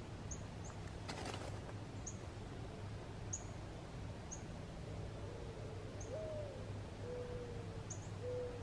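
Low bird calls: from about halfway through, a few soft drawn-out notes, the first rising then falling and the rest sliding gently down, with faint high chips about once a second and a brief rustle about a second in.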